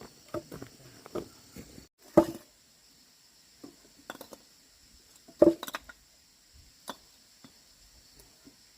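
A series of irregular knocks and clunks of hard objects being handled or dropped, two of them much louder than the rest, over a steady high drone of insects.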